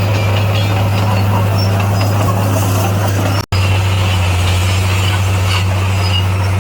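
Bulldozer's diesel engine running steadily with a deep, even drone. The sound cuts out for an instant about halfway through and then resumes unchanged.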